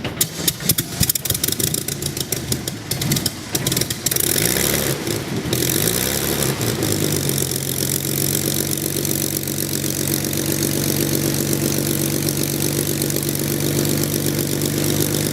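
Large piston aircraft engine cold-starting: irregular firing and pops for the first few seconds as it catches and picks up speed, then settling into a steady idle from about seven seconds in.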